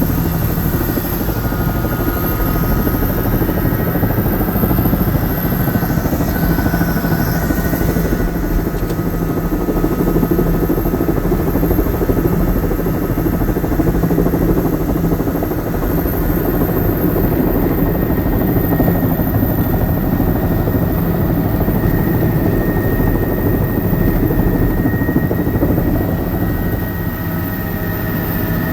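Helicopter running steadily: a loud, unbroken rotor and engine drone with a thin steady whine over it.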